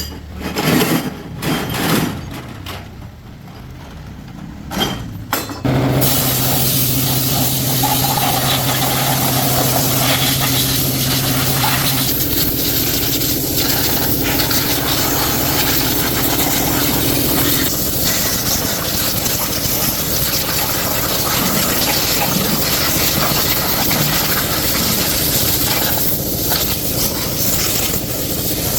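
A few scattered knocks, then about six seconds in a machine starts suddenly and runs steadily and loudly with a strong hiss, a low hum sounding under it for the first several seconds.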